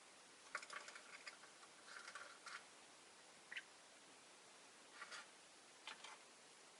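Rosy-faced lovebirds making faint, short chirps and clicks in scattered bursts, a small cluster about half a second in, another about two seconds in, and single ones later.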